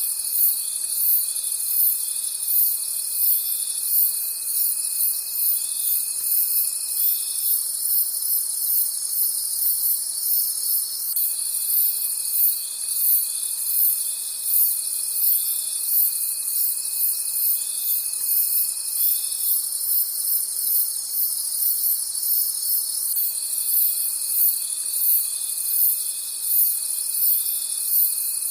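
Night insect chorus of crickets chirping in a fast, even pulse. A second, lower steady trill drops out about 7 seconds in, resumes around 11 seconds, stops again near 19 seconds and returns after about 23 seconds.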